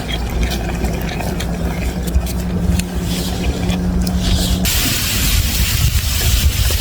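A car engine running with a steady low hum. About two-thirds of the way in the sound cuts abruptly to a steady hiss.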